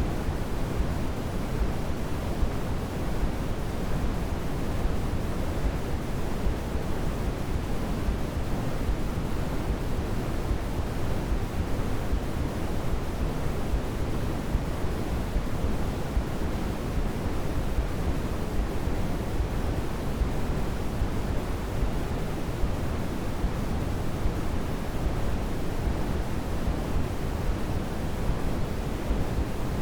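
Steady white noise played as a baby sleep aid: a constant, even rush, deeper than a bright hiss, with no change or break.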